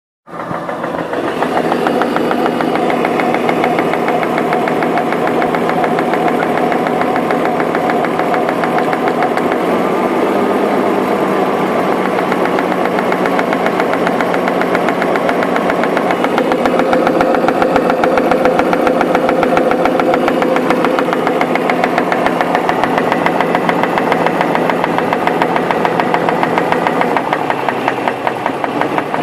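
BMW X5's M54 3.0-litre straight-six engine idling at a steady pitch with a fast, regular knocking tick running with the engine's rhythm: the knock the owner is showing.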